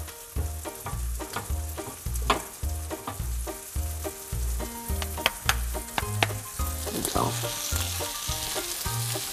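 Flour-dredged chicken pieces sizzling in hot oil in a frying pan as they are laid in, with a few sharp clicks of pieces set against the pan. A low pulsing bass runs beneath.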